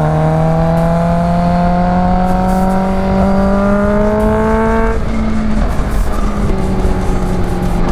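Kawasaki H2's supercharged inline-four pulling under acceleration, its pitch climbing steadily for about five seconds, then dropping and holding steady, with wind rushing over the microphone.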